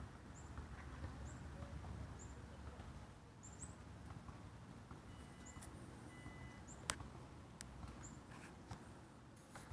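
Small birds cheeping faintly: short high chirps repeated about once a second. A sharp click sounds about seven seconds in.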